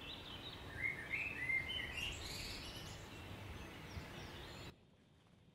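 Birds chirping, a run of short chirps over a steady hiss, which cuts off suddenly near the end.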